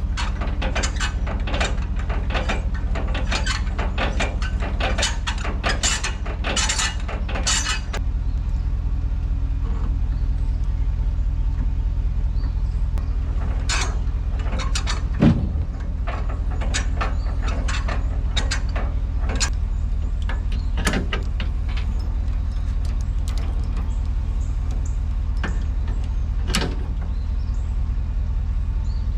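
A vehicle engine idles steadily throughout, with a quick run of metal clicks and knocks for the first several seconds, then scattered single clanks, the loudest about halfway through. These are typical of hooking a trailer up to a vehicle.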